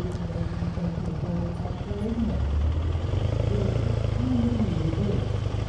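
Motorcycle engine running at low revs while riding slowly, its note shifting about two seconds in and then holding steady.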